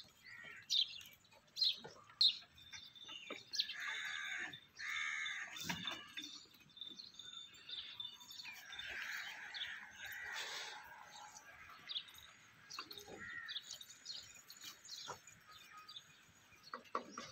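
Small birds chirping outdoors in short, sharp repeated calls, with a thin steady high tone running for a few seconds in the first half.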